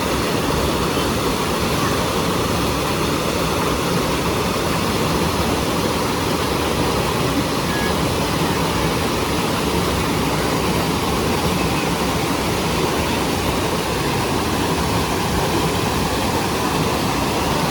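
The 37-metre Aber Falls (Rhaeadr Fawr) waterfall: a loud, steady, unbroken rush of falling water.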